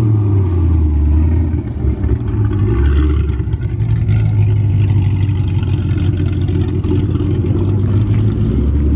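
Car engine running with a loud, low exhaust drone that shifts in pitch a few times as the revs change.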